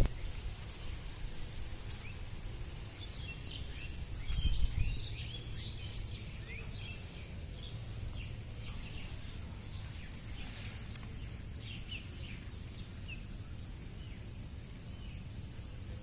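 Small birds chirping: many short, scattered high calls over a low rumble, which swells briefly about four to five seconds in.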